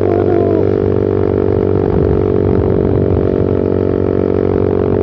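Suzuki Satria FU Fi's 150 cc single-cylinder four-stroke running at a steady cruising speed through a short Pro Liner aftermarket muffler with its dB killer removed, giving a loud, steady droning exhaust note.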